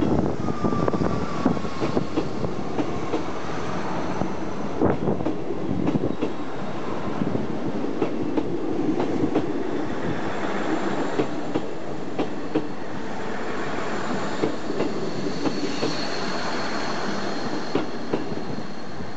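Class 159 diesel multiple unit pulling out of the station and running past close by: wheels clicking irregularly over rail joints and points over the steady running noise of the train, with a thin wheel squeal in the last few seconds.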